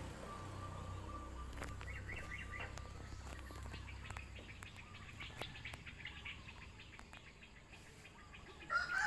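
Birds chirping in short bursts over a low rumble that fades out about halfway through, with scattered faint clicks; a louder call starts right at the end.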